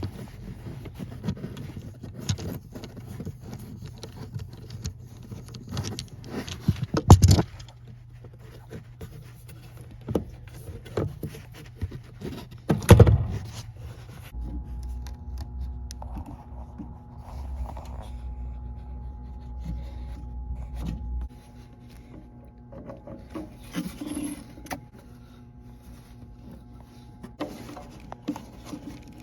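Hand tools and metal parts clinking, scraping and knocking during a clutch master cylinder swap, with two loud knocks about seven and thirteen seconds in. A low steady hum runs from about fourteen to twenty-one seconds in.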